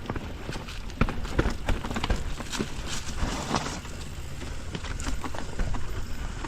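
Mountain bike riding down a rough downhill trail: tyres rumbling over dirt, ruts and rocks, with irregular sharp knocks and rattles from the bike over a steady low rumble.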